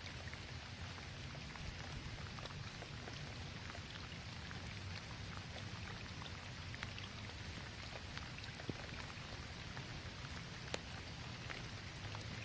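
Steady rain falling, with individual drops ticking sharply every so often.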